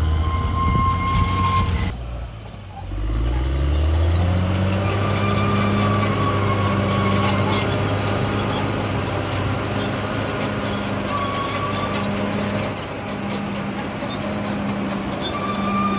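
Crawler bulldozer's diesel engine running under load, with a steady high-pitched squeal from the tracks. The sound dips briefly about two seconds in, then the engine note climbs and holds.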